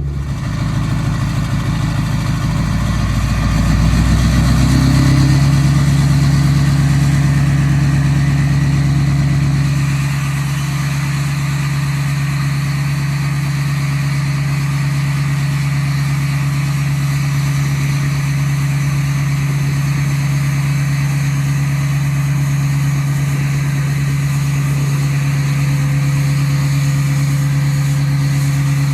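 Straight-piped 6.6 L LBZ Duramax V8 diesel idling on a cold start in well below freezing weather, with an idle that sounds crazy. It runs louder and heavier for the first ten seconds or so, then settles to a slightly quieter, steady idle.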